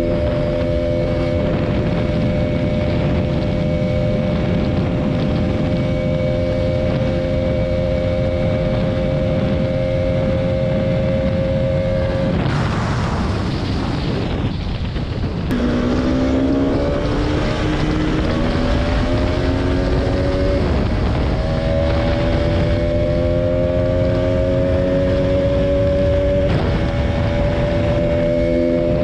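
Single-cylinder Bajaj motorcycle engine running at speed, with wind rumble on the microphone. About twelve seconds in the engine note falls away, then it climbs again through several gears, its pitch dropping at each upshift.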